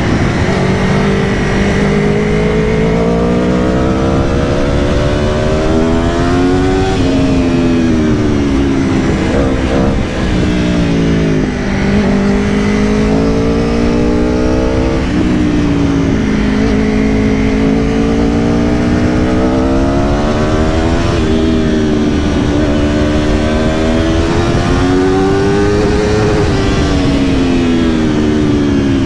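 2022 Aprilia Tuono V4 Factory's V4 engine pulling hard under way. Its pitch climbs through the revs and drops sharply at each gear change, about six times, over a steady rushing noise.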